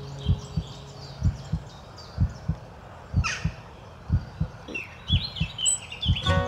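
A slow heartbeat, a double thump about once a second, under birds chirping; a guitar song starts up near the end.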